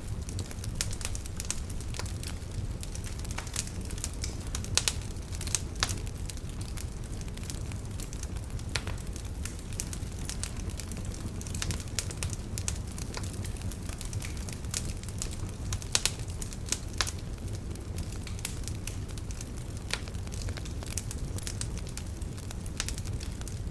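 Wood fire burning in a fireplace: a steady low rumble of the flames under frequent, irregular crackles and pops from the burning logs, a few of them sharper and louder.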